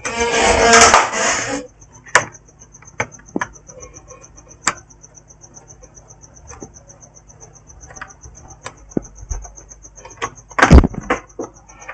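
Laptop disassembly by hand: a rustling scrape about a second and a half long at the start, then scattered plastic clicks and knocks, with a louder knock near the end. A faint high, rapid pulsing trill runs behind it.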